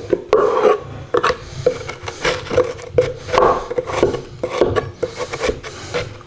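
Packed nest material of chicken feathers and dry grass being scraped and pulled out of a wooden birdhouse: repeated rough scraping strokes, about one or two a second.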